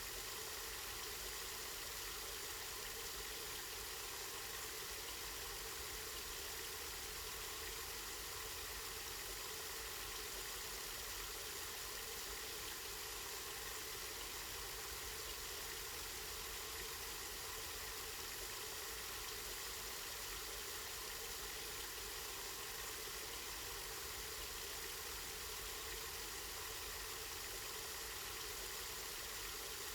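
Water from a spring running and splashing steadily, an even hiss with no breaks or changes.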